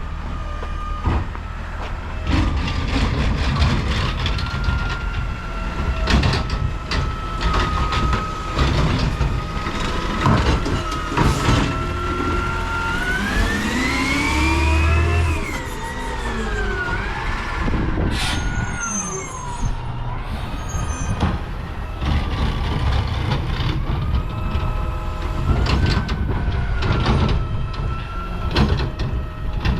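Garbage truck's engine and hydraulics running during trash collection, with a steady whine that rises in pitch about halfway through and settles again, as if revved to drive the hydraulics. Repeated clanks and bangs throughout, typical of cans and trash being handled.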